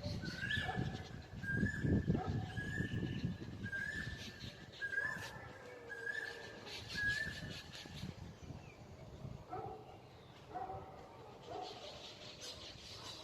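Birds calling: one bird repeats a short, slightly rising call about once every two-thirds of a second for the first seven seconds or so, and other, lower animal calls follow near the end.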